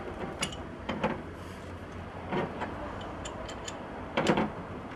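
A few short scrapes and clicks of hand work on irrigation fittings, spread out over about five seconds, over a low steady hum.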